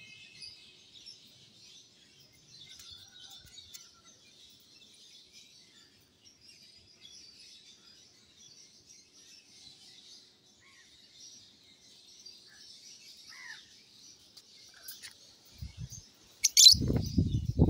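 Small birds twittering faintly and continuously in high chirps. About sixteen seconds in a bird gives one loud, sharp high call, followed by loud low bumping noises.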